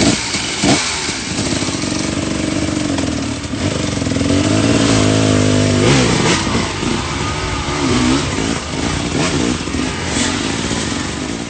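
Dirt bike engine revving up and down, its pitch repeatedly rising and falling, with scattered knocks and clatter.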